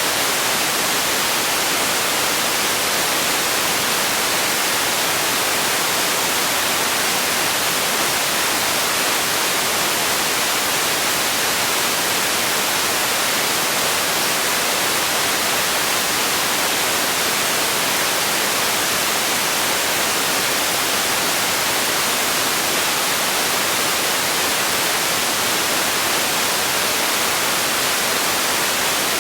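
Steady generated white noise for sleep: an even, unbroken hiss, weighted toward the highs and thin in the low end.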